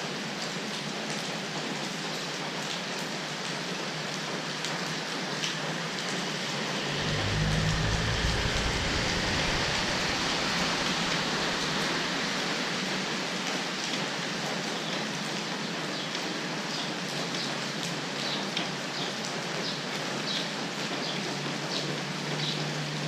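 Steady rain falling, with scattered close drops ticking. About seven seconds in, a deep low rumble swells for a few seconds and then fades.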